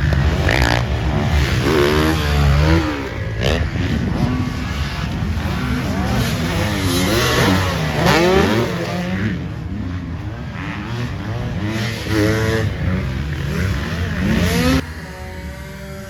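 Several motocross dirt bike engines racing past, their pitch rising and falling over and over as the riders rev, shift and let off over the jumps. About fifteen seconds in the sound drops suddenly to a quieter, steadier engine sound.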